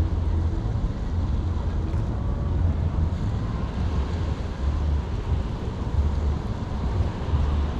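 Wind buffeting the microphone, with uneven low rumbles over a steady hiss.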